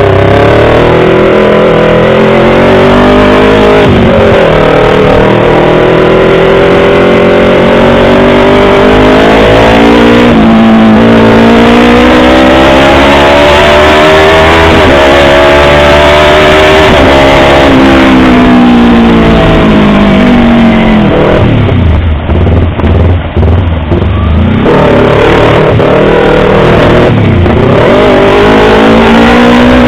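Yamaha R25's 250 cc parallel-twin engine pulling hard, its pitch climbing and then dropping sharply several times as it changes up through the gears. About two-thirds through the revs fall away and the sound stutters briefly before climbing again.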